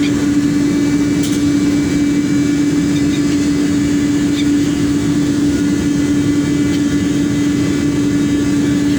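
Boat engine running steadily: a constant low drone with a strong, even hum.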